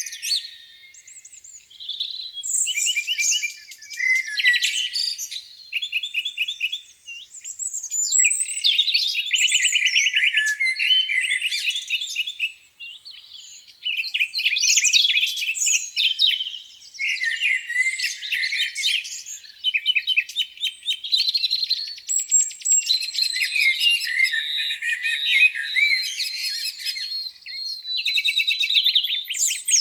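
Several songbirds singing at once, overlapping trills and fast runs of repeated chirps, with two brief lulls, near the start and about halfway through.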